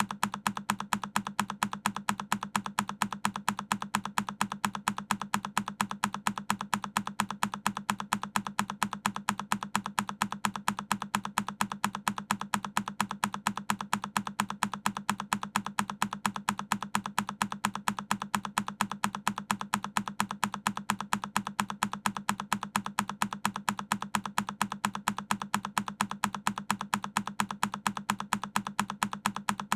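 A single key press on a Keychron K10 mechanical keyboard, looped: the same sharp key click repeats in quick, evenly spaced succession.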